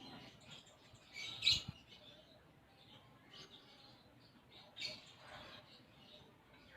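Konin songbird giving sharp, sparrow-like chirps, with two louder chirps about a second and a half in and near five seconds. Its song is filled with mimicked Eurasian tree sparrow calls.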